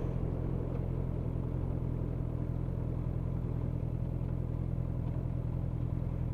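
Motorcycle engine running at a steady speed while riding, an even hum with no revving.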